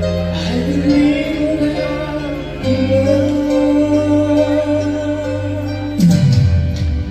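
Music with a singing voice, long notes held steadily over an accompaniment; about six seconds in, sharper beats and low sliding notes come in.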